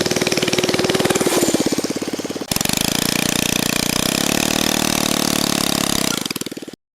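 Small single-cylinder four-stroke engine, the 79cc Predator, running with fast, even firing pulses; after an abrupt cut about two and a half seconds in it runs again and rises in pitch as it revs, then fades out near the end.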